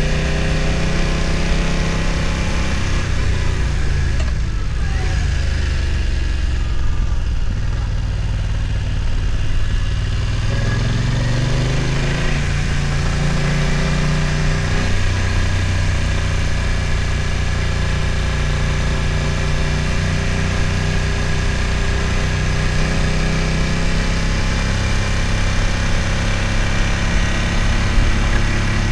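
BMW F900 XR's parallel-twin engine running at low revs on a climb. The engine note dips a few seconds in and rises again about eleven seconds in as the throttle is opened.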